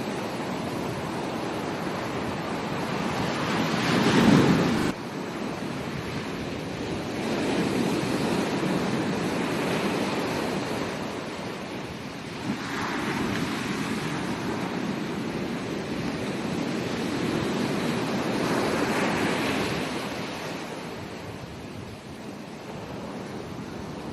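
Ocean surf breaking on a beach: waves rise and wash in as swells of noise about every four to six seconds, with wind on the microphone. The loudest surge comes about four seconds in and cuts off abruptly.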